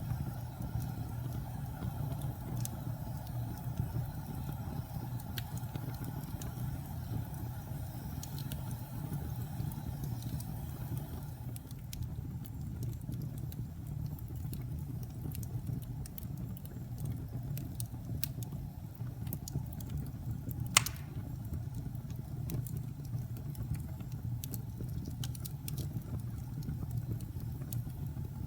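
Fire in a fireplace burning with a steady low rumble, scattered crackles and pops that come thicker in the second half, and one loud sharp pop about two-thirds of the way through.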